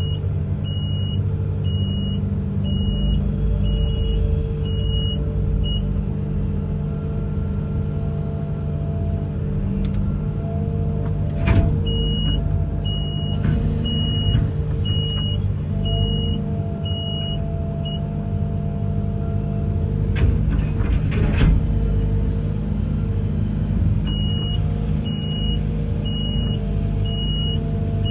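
Amphibious excavator's diesel engine running steadily, with a warning alarm beeping a bit more than once a second in runs of several seconds at the start, middle and end. A sharp knock comes a little before halfway, and a short clatter of knocks about three-quarters in.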